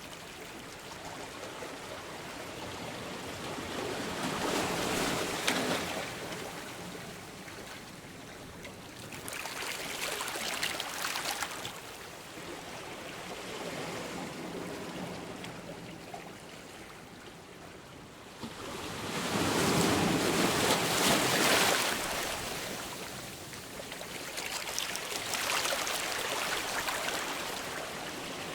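Sea waves breaking on the shore: surf noise swelling and fading as each wave comes in, four waves in turn, the loudest about two-thirds of the way through.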